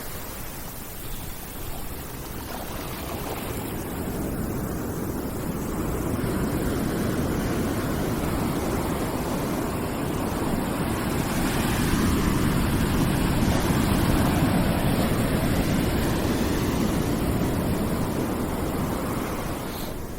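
Ambient background noise track: a low, even rushing noise with no distinct events that slowly swells and eases off again, like surf.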